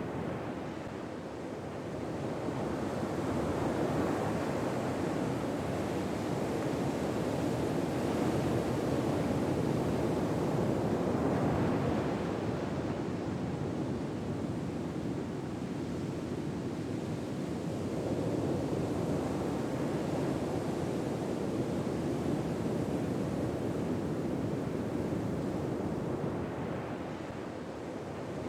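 Ocean waves washing in on a shore in slow, even swells, a soft rise and fall of surf every several seconds.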